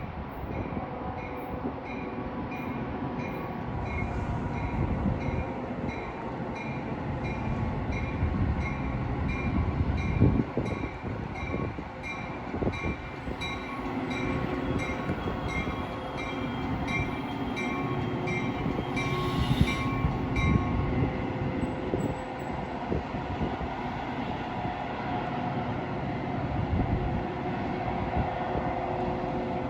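Metra commuter train pulling into the station, its cars rumbling steadily, while a bell rings evenly about twice a second and stops about two-thirds of the way through. A short hiss comes just before the ringing stops.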